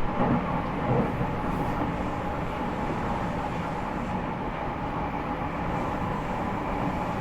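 Running noise of a JR East E501 series electric multiple unit, heard inside motor car MoHa E501-8: a steady wheel-on-rail rumble with a couple of rail-joint knocks in the first second.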